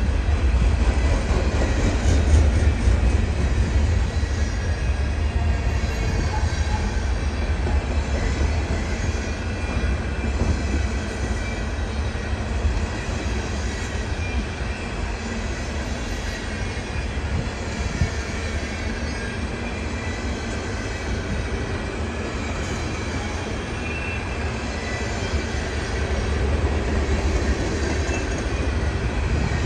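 Freight train cars rolling steadily past: a continuous low rumble with a faint high-pitched wheel squeal over it.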